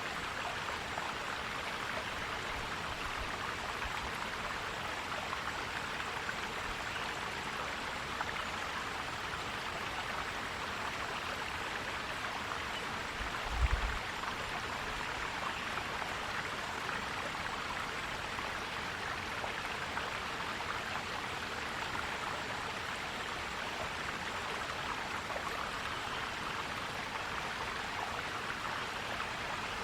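Forest stream flowing and gurgling steadily, with a brief low thump about halfway through.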